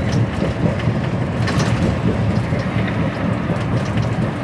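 Heard from inside the cab of an HGV lorry on the move: a steady low engine and road rumble, with light clicks and rattles from the cab, a little more about a second and a half in.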